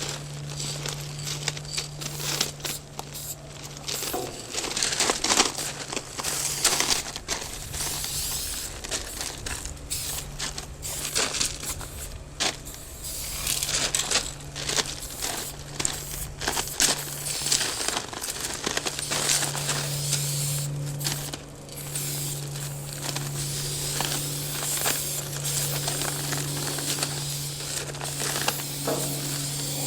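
Aerosol spray paint cans hissing in irregular short and longer bursts, over a steady low hum that drops out briefly about two-thirds of the way through.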